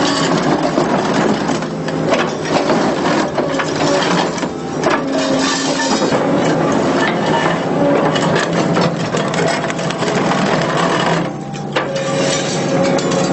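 Excavator-mounted hydraulic concrete pulverizer crunching and cracking concrete, continuous, over a steady machine hum. The noise drops briefly near the end, then resumes.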